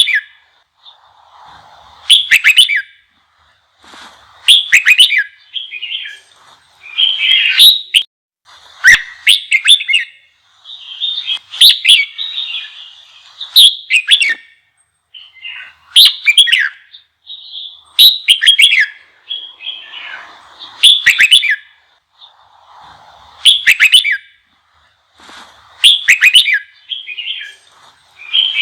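Red-whiskered bulbul song: short, loud whistled phrases with quick rising and falling notes, repeated about every two seconds in an intense, fiery run.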